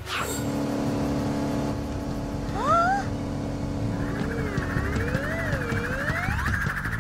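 Cartoon sound effects of a sports car engine running steadily. Rising whistle-like glides come about two and a half seconds in, and wavering ones follow near the end.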